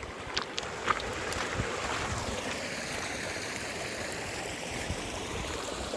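Rushing water of a stream or waterfall, a steady noisy rush that grows a little louder over the first second or two and then holds, with a few light footstep clicks near the start.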